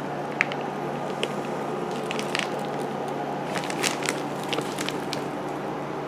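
Light crinkles and clicks of packaging being handled: a few scattered clicks, then a denser cluster about three and a half to four seconds in, over a steady low hum.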